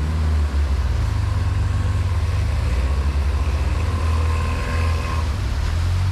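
T-Rex ATV engine running steadily under way, with a faint higher whine over it for a second or two past the middle.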